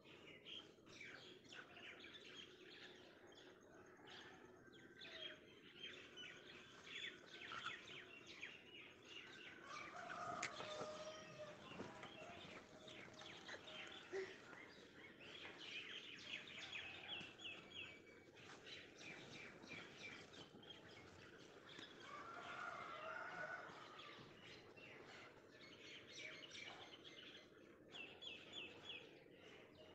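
Faint birds chirping in short quick runs, with a few longer, lower calls about a third of the way in and again about three-quarters through.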